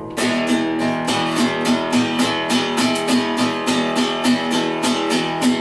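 Guitar strummed in a steady, quick rhythm of about four strokes a second, holding the same chord pattern.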